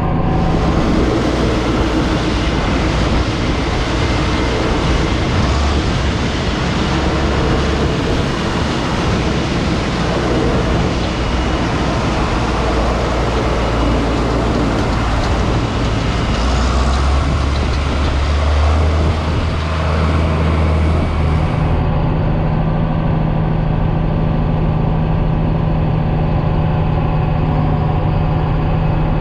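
John Deere 9500 combine running steadily under harvest load, a loud low machine hum with a dense rushing noise over it; the sound shifts abruptly about 22 seconds in.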